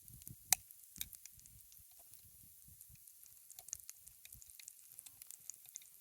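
Wood campfire crackling: scattered sharp pops over a faint steady hiss, the loudest pop about half a second in.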